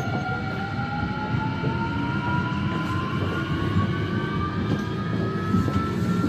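Busan Metro Line 2 train's VVVF inverter and traction motors whining, the pitch rising steadily as the train picks up speed, over the rumble of the car running on the track.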